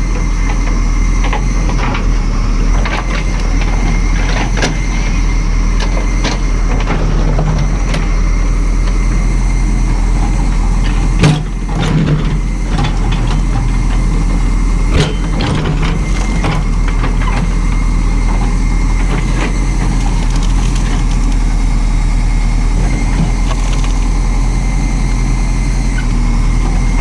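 Heavy construction machine's engine running steadily, with a sharp knock about eleven seconds in and a smaller one around fifteen seconds.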